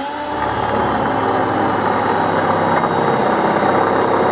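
Electric drill spinning up quickly and then running steadily as a large Lawson drill bit bores a hole through a panel.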